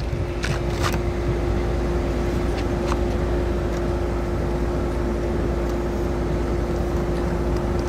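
Steady road and engine noise of a moving vehicle, with a constant low hum and a few faint clicks about half a second to a second in.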